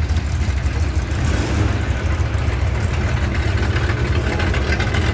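Classic Mopar muscle car engine running at low speed with a steady deep exhaust note, as the car idles or rolls slowly.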